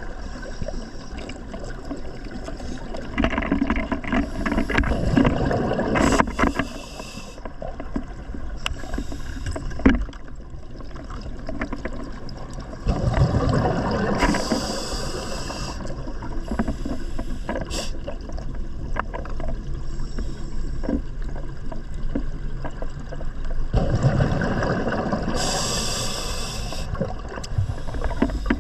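Scuba regulator breathing underwater: a hiss on each inhalation and a burst of bubbling exhaust on each exhalation, repeating about every ten seconds, three breaths in all.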